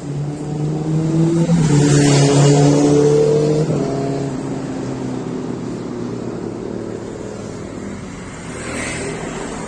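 A vehicle engine accelerating, its pitch rising in steps for about four seconds before it eases off to steady running.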